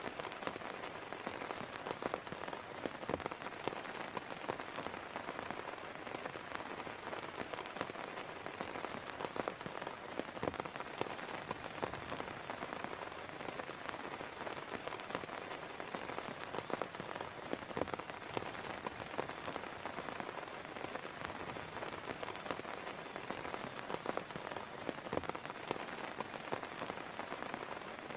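Heavy rain falling steadily, with many distinct close drop hits scattered through it.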